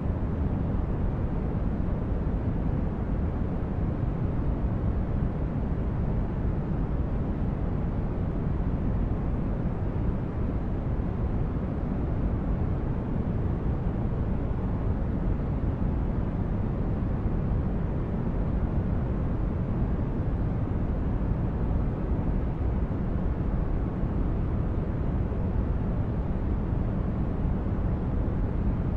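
Steady white-noise sleep track: an even, deep rushing noise, strongest in the low end and fading in the highs, with no change or break.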